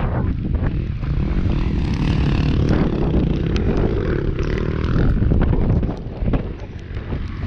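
Wind buffeting the microphone in a dense low rumble with scattered knocks, easing about six seconds in.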